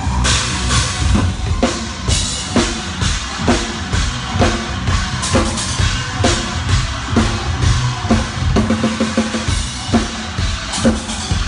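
Drum kit played in a steady beat, about two hits a second on bass drum and snare with cymbals, with a quick fill about eight and a half seconds in.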